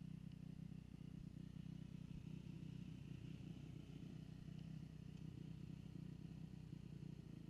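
Dirt bike engine running steadily, heard faintly as a low, muffled hum.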